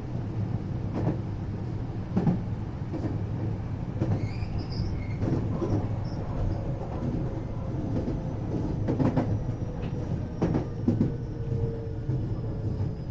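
Cab-car interior running noise of a 521-series electric multiple unit: a steady low rumble with wheels knocking over rail joints at irregular intervals, brief high squeals about four to six seconds in, and thin tones slowly falling in pitch in the second half as the train slows for a station stop.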